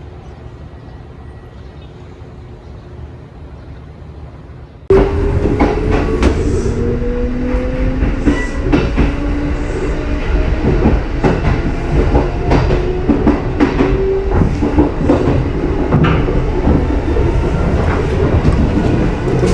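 Kintetsu 80000 series limited express train running close by: a steady motor whine rising in pitch as it picks up speed, with wheels clicking over rail joints. A quieter rumble for about the first five seconds, then the sound jumps abruptly louder.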